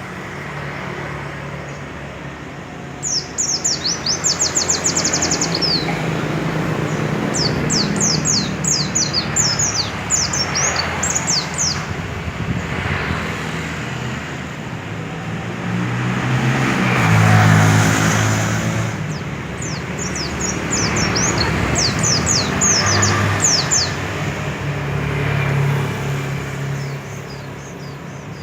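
Pleci (white-eye) songbird singing in several bouts of fast, high, rapid chirps. Under it runs steady traffic noise, with a motor vehicle passing loudest a little past halfway.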